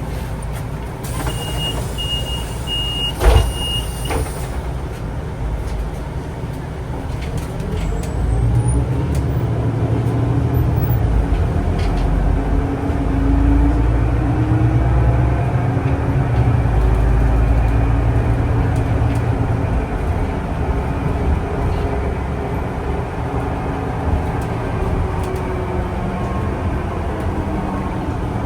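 City public-transport vehicle on route 12, heard aboard: a rapid high-pitched beeping for about three seconds with a sharp knock in the middle of it, typical of a door-closing warning, then the vehicle pulls away. Its low running rumble swells, with rising whining tones as it speeds up, and then eases back to a steady ride noise.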